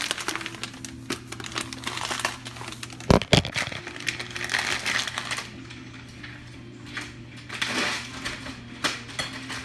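Crinkling and rustling of a packet of stuffing mix being opened and handled, with two sharp knocks close together about three seconds in. A radio plays faintly underneath.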